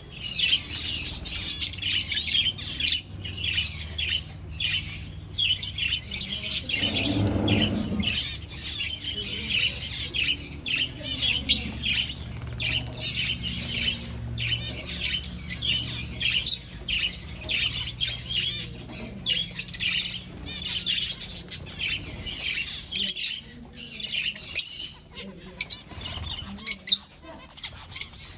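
A flock of aviary finches chirping and calling continuously, many short, overlapping high chirps. A low steady hum runs underneath for most of it, and a short broad noise comes about seven seconds in.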